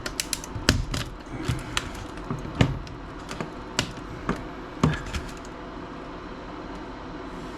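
Plastic laptop case cracking and snapping in quick, irregular clicks as it is forced apart. The snapping stops about five seconds in.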